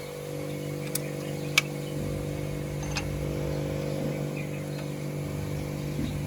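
Toyota Corolla GLI engine idling steadily, with a few sharp clicks over it about one, one and a half and three seconds in.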